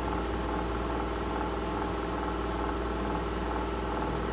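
A steady mechanical hum, an unchanging stack of even tones that keeps running without a break.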